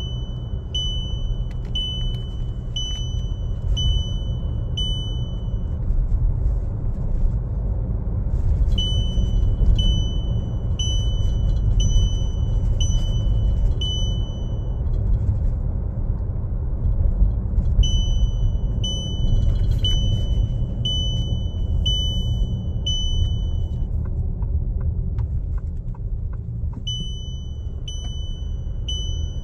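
Steady low rumble of a running vehicle with a high electronic warning beep repeating about three times every two seconds, in runs of about six seconds separated by short pauses.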